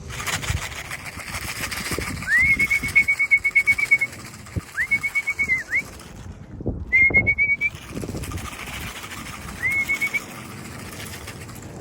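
A person whistling four times to call racing pigeons down into the loft, each whistle sliding up into a held, warbling note, the first the longest. Pigeons' wings flap at times.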